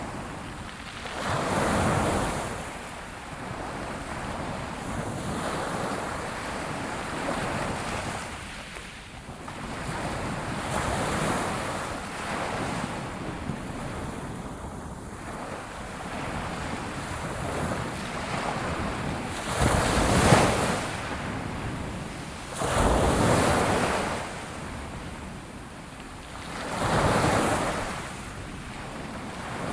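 Ocean surf washing on a seashore: a steady rush of water that swells into several louder surges as waves break, the biggest about two-thirds of the way in.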